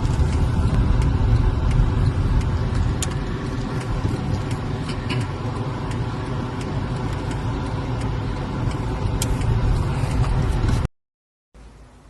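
Steady engine and road rumble heard inside a moving car's cabin, with a few faint ticks. It cuts off suddenly near the end and gives way to a much quieter background.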